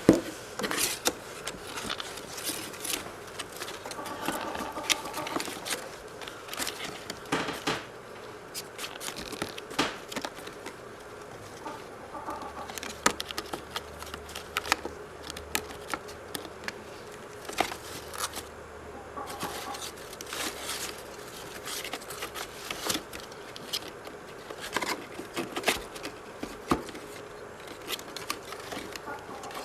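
Quaker parrot working a playing card into its nest: irregular rustling, scraping and clicking of card and nest material, with a few short soft calls.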